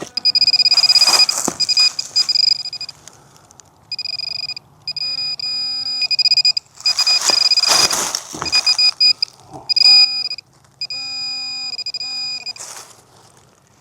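Metal detector sounding on a buried target: high electronic tones, sometimes held and sometimes broken into short beeps, with lower tones between them. Two loud bursts of scraping noise come about a second in and again about halfway through.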